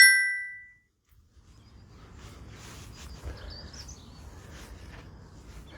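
A short, bright chime right at the start that rings away in under a second. After a moment of dead silence, faint outdoor background noise follows, with birds chirping here and there.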